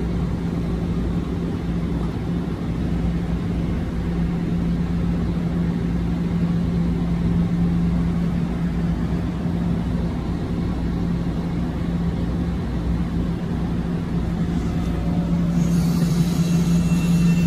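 Metro-North electric multiple-unit train standing at the platform, its on-board equipment giving a steady low hum over a rumble. About sixteen seconds in, higher whining tones come in as the train starts to pull out.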